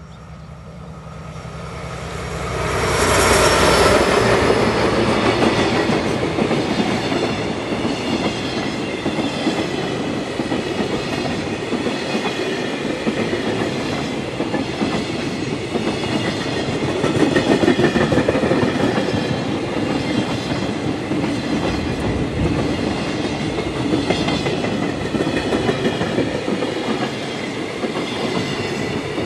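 A DE70 diesel-hydraulic locomotive approaches with its engine running, growing loud over the first few seconds. It passes, and then a long train of container flat wagons rattles by with rhythmic wheel clickety-clack over the rail joints and a thin high ringing from the wheels.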